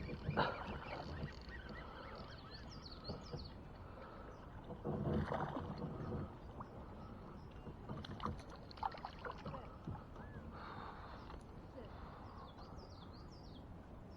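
Splashes and knocks at a kayak as a small hooked bass is brought in, over a steady low wash of river water. Small birds chirp twice, a few seconds in and near the end.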